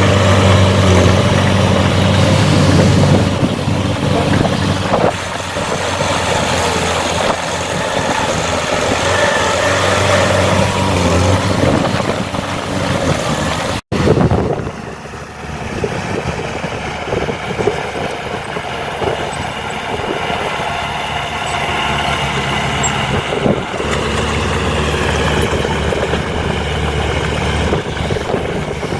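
Diesel engines of heavy earthmoving machines running steadily. The sound cuts out for an instant about halfway through and comes back with a different engine note.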